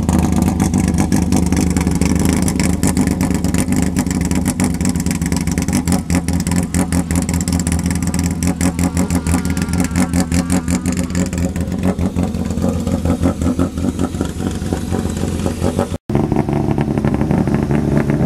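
Renault Clio rally car's engine idling, with a fast, pulsing beat. About sixteen seconds in there is a brief dropout, then another rally car's engine idling.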